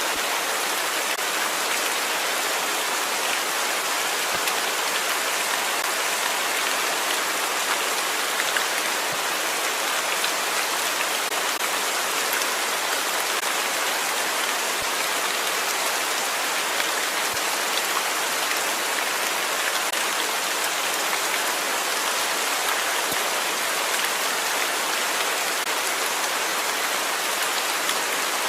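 Steady rain falling, an even hiss of countless drops with a few faint individual drop ticks.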